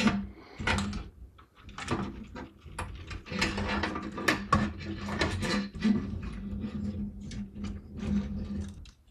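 Irregular clicks, knocks and rustles of cables and parts being handled and fitted inside a small-form-factor PC case, over a steady low hum.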